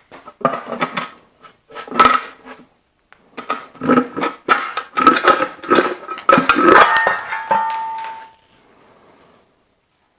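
Metal clanking and clinking of hand tools and engine parts while the valve cover is worked off the Allis-Chalmers C engine, in irregular clusters of sharp knocks. Near the end one ringing metal tone dies away.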